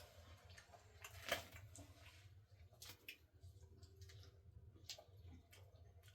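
Near silence with a faint low hum and scattered faint clicks, one sharper click about a second in.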